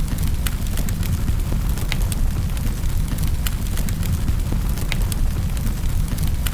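Wood fire burning in a fireplace: a steady low rumble of flames with irregular sharp crackles and pops, about one or two a second.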